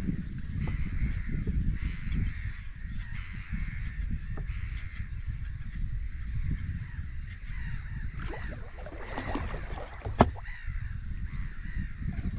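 Birds calling again and again over a steady low rumble, with one sharp click about ten seconds in.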